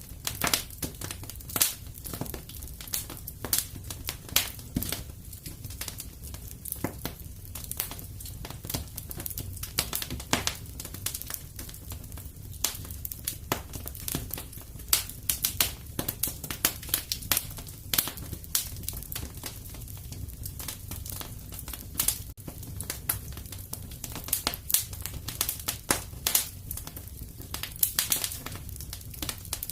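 Wood fire crackling and popping in a fireplace: frequent irregular sharp snaps over a steady low rumble of the burning fire.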